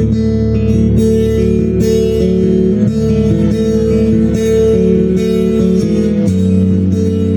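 Music: gently picked acoustic guitar arpeggios over sustained low bass notes, the chord changing about six seconds in.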